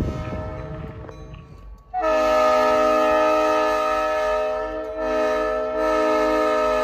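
Locomotive air horn sounding about two seconds in, a held chord of several notes that dips briefly and then carries on, after a low rumble fades away.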